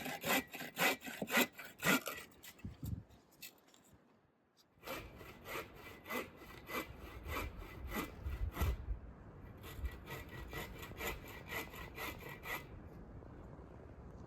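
Hand saw cutting through wood in quick back-and-forth strokes, about three a second, with a short pause about four seconds in before the sawing resumes.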